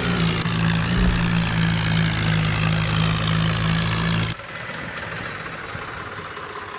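Ford tractor engine running steadily and loudly, cutting off abruptly about four seconds in, leaving a fainter engine hum.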